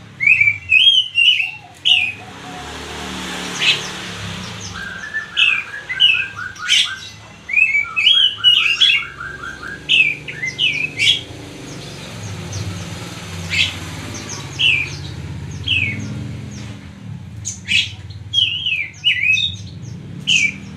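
Oriental magpie-robin singing: bursts of short, clear whistled notes that rise and fall, with two quick runs of repeated notes in the middle, over a low steady hum.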